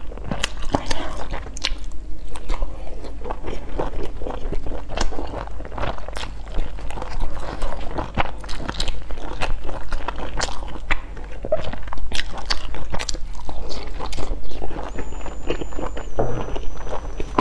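Close-miked eating sounds: a large steamed bun dipped in chili sauce is bitten and chewed, with many irregular lip smacks and mouth clicks.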